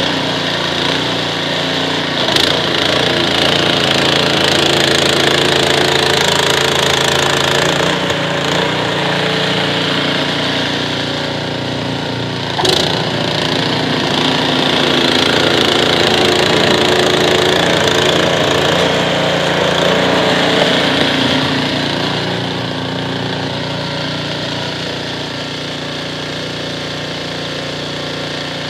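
Small petrol engine of a snowblower running steadily, with a sharp knock a couple of seconds in and another about twelve seconds in.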